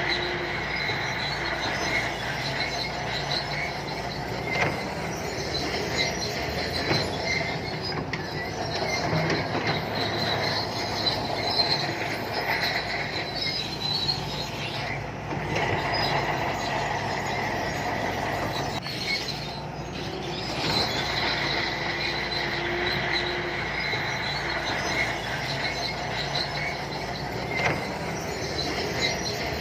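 Shantui crawler bulldozer working: the diesel engine runs steadily while the steel tracks give a high, steady squeal with occasional clanks.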